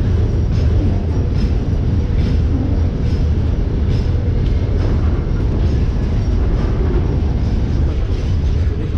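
Steady low rumble from a passenger train standing at the platform, with faint clicks coming at a fairly even pace.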